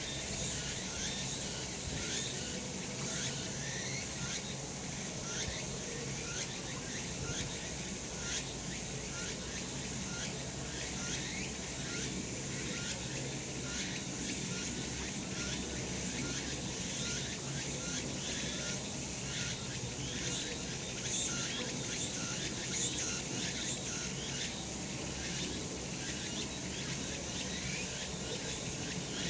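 Cicadas singing steadily in chorus, a dense continuous buzz with a fast run of short rising chirps throughout.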